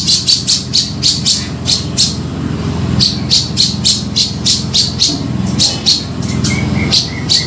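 Cucak jenggot (grey-cheeked bulbul) singing loud, harsh, rapid chattering notes at about four a second. There is a short pause about two seconds in, and a few thinner whistled notes near the end, all over a steady low hum.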